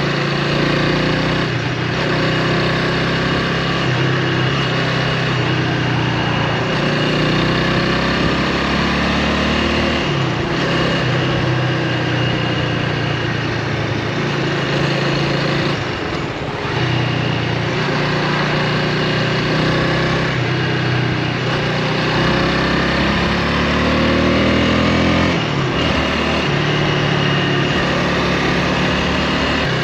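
Honda Rebel 300's single-cylinder engine running under way. Its pitch rises and falls with the throttle as the bike rides along, with a short drop in level about halfway through.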